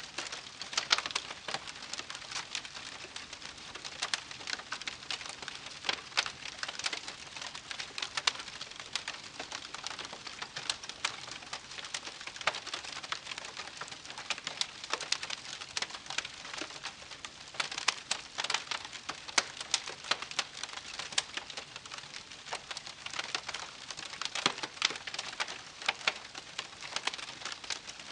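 Wood campfire crackling, with dense irregular pops and snaps over a soft steady hiss.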